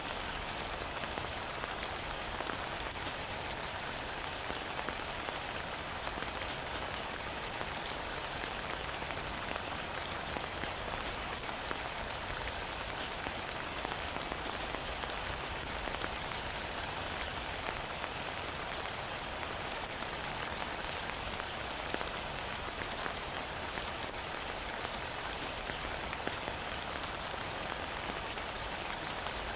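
Heavy rain falling steadily, an even hiss with a few faint drop ticks scattered through it.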